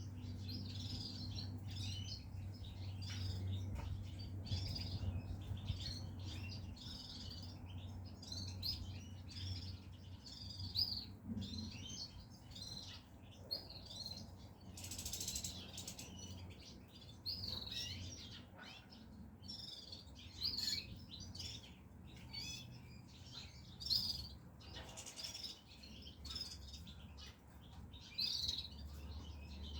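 Caged European goldfinches chirping and twittering in quick short calls over a steady low hum.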